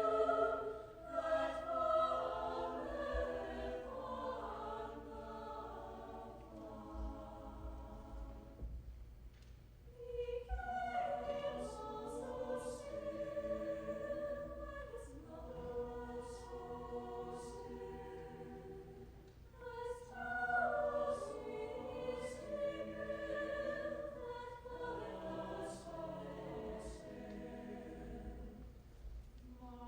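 A high school choir singing sustained chords in long phrases, with short breaks between phrases about ten and twenty seconds in.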